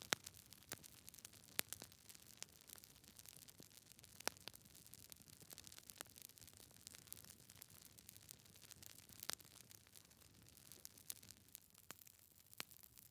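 Wood fire burning in a fireplace: faint, irregular crackles and pops from the logs over a soft hiss, with a few sharper snaps standing out.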